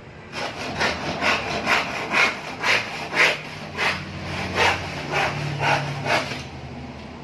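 Hand saw cutting with quick back-and-forth strokes, about two a second, which stop about a second before the end.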